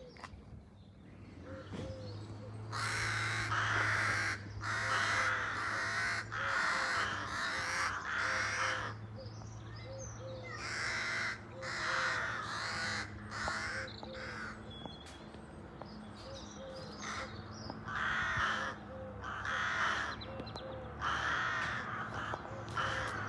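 Harsh bird calls, each about a second long, repeated at irregular intervals, over a low steady hum.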